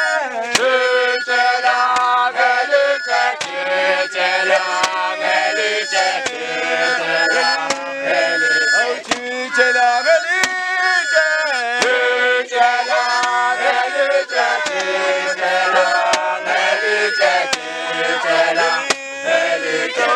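A group of voices singing and chanting together in a traditional song, with sharp percussive hits at irregular intervals.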